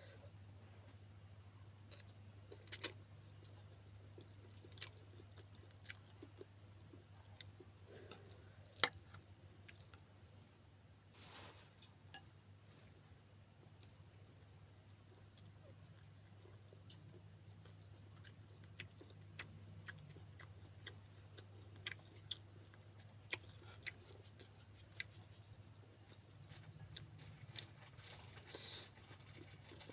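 Steady high-pitched insect trill, typical of a cricket, over a low hum, with scattered soft clicks and taps of eating: cutlery on a plate and chewing.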